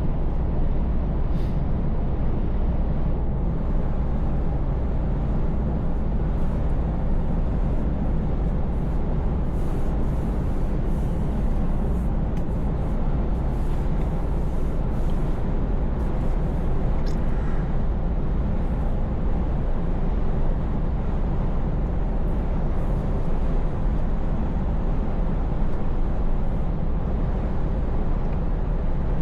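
Scania S580 truck's V8 diesel engine running steadily at cruise, a constant low drone mixed with tyre and road noise, with a few faint clicks on top.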